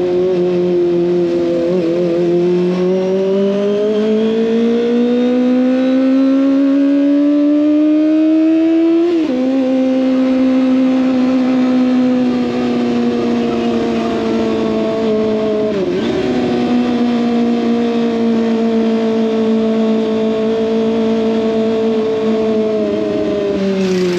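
Kawasaki ZX25R's 250 cc inline-four through an SC Project exhaust, ridden under way: the engine note climbs steadily as it accelerates through a gear, then drops at an upshift about nine seconds in. After that it holds a steady cruising note that sags slowly, with a brief dip and recovery around sixteen seconds and a drop near the end.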